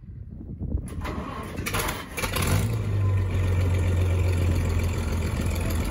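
Case 830 Comfort King tractor's propane-fuelled engine on a cold start: it cranks briefly, catches about two and a half seconds in, and settles into a steady low-pitched run.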